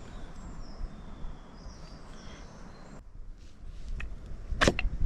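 Faint, short, high bird chirps over quiet forest ambience, then a few sharp clicks near the end, the loudest about a second before it ends.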